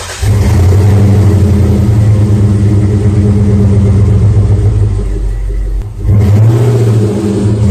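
A loud car engine running at a steady pitch, dipping briefly about six seconds in and then picking back up.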